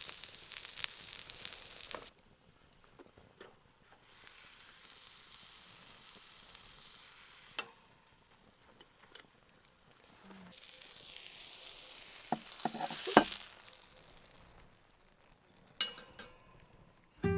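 Beef sizzling as it cooks, heard in several short takes that cut off abruptly, with a few sharp clicks and taps of a utensil, the loudest a little past the middle.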